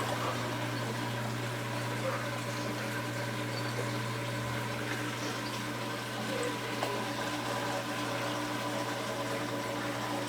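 Aquarium filtration running steadily: a constant pump hum under flowing, trickling water.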